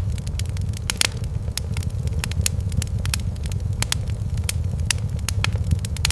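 Wood fire crackling, with sharp irregular pops over a steady low rumble; the loudest pop comes about a second in.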